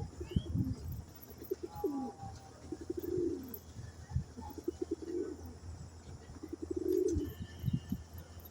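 Domestic pigeons cooing: about five low, rolling coo phrases a second or two apart, with a few soft knocks in between.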